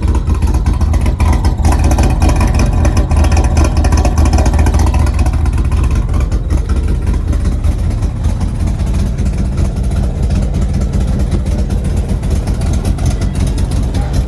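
Mustang GT's ghost-cammed V8 running through headers and a Corsa sport exhaust, loud and steady, a little louder in the first few seconds. The exhaust is still leaking at the headers.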